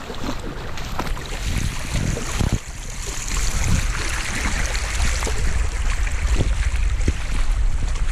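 Fast-moving floodwater rushing over a flooded trail, a steady noisy wash, with low wind buffeting on the microphone building up about a second and a half in.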